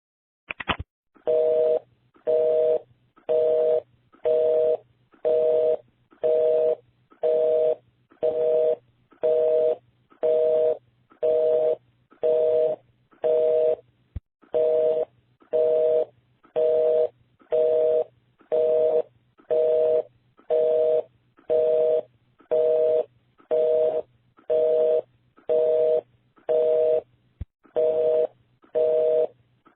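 Telephone busy signal: a pair of steady tones beeping about once a second, half a second on and half off, after a short click at the start.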